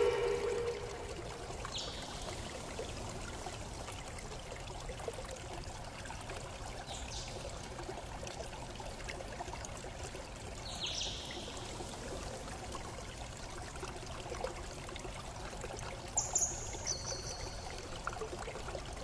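Steady flowing water, like a stream, with a few short high chirps about 2, 7, 11 and 16 seconds in.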